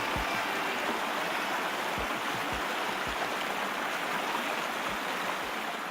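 Steady rushing water of the Niagara River, a continuous noisy hiss with a few short low thumps.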